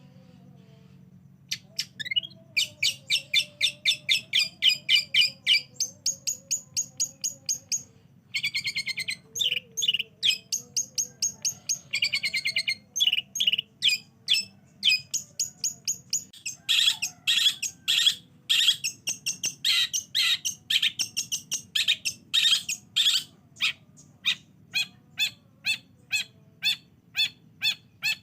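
Long-tailed shrike (cendet) singing a fast, chattering song of sharp repeated notes and rattling trills, starting about one and a half seconds in after a short lull.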